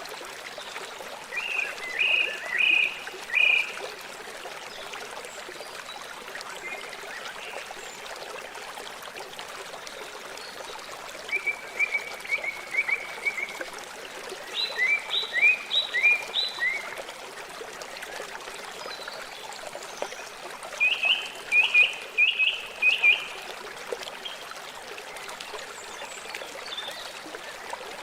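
River water flowing with a steady rush. Four times, a short run of quick, high chirps cuts in over it, each lasting about two seconds.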